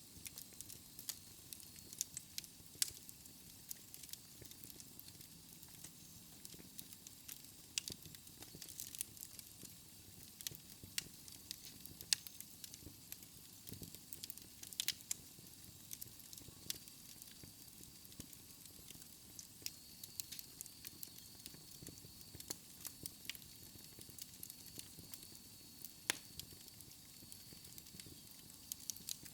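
Fire in a fireplace crackling, with irregular sharp pops and snaps over a soft hiss.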